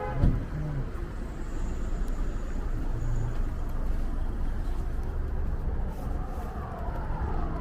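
Car running with a steady low engine and road rumble. A single sharp thump comes about a quarter second in.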